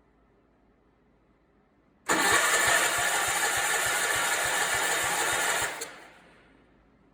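Allis-Chalmers 416 garden tractor's engine cranked by its electric starter for about three and a half seconds, with an even pulse of about five to six compression strokes a second. It does not fire and stops suddenly; the owner puts the failure to start down to fuel not reaching the engine.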